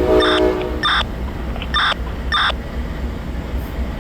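Amtrak P42 diesel locomotive's horn sounding for departure, cutting off about a second in, followed by short ringing strikes of the locomotive bell over a low, steady engine rumble.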